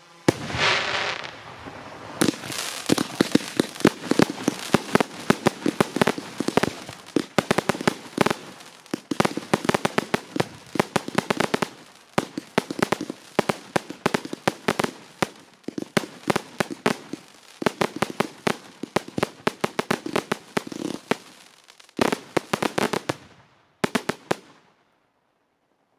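Aerial fireworks going off in rapid succession: a short hiss at the start, then a dense run of sharp bangs and crackling pops with brief lulls, stopping abruptly near the end.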